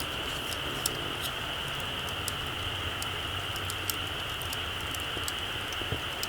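Small wood campfire crackling, with scattered sharp pops and ticks, a few louder than the rest, over a steady high-pitched hiss.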